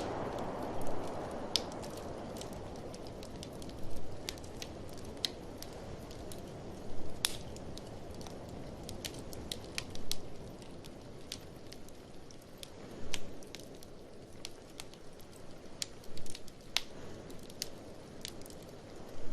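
Wood fire crackling in a fireplace, with sharp pops scattered irregularly, over the whooshing wind of a blizzard that eases after the start and rises again in the second half.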